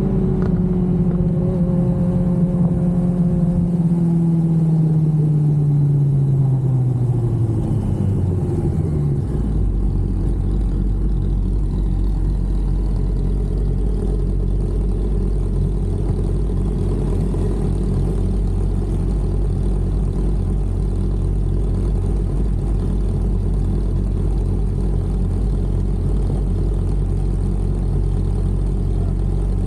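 Sport motorcycle's inline-four engine, a 2005 Yamaha R1, dropping in revs with its note falling steadily for about nine seconds, then settling into a steady idle.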